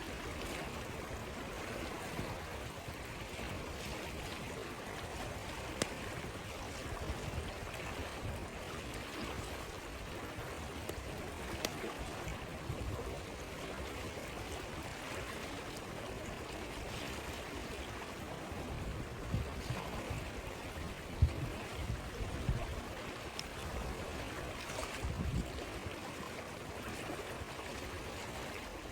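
A stream flowing steadily, with occasional sharp pops from a crackling campfire, a few of them close together about two-thirds of the way in.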